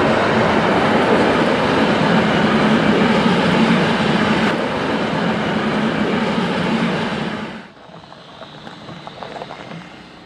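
Train coaches rolling over the track with a loud, steady rumble and rattle of wheels. About three-quarters of the way through it drops suddenly to a much fainter, distant train sound.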